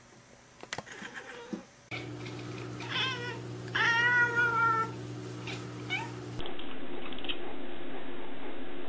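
A domestic cat meowing twice: a short meow about three seconds in, then a longer, louder, drawn-out meow.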